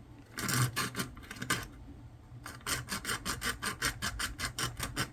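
A hand tool cutting through a small part with back-and-forth scraping strokes: a few slow strokes, a short pause, then a steady run of about four to five strokes a second.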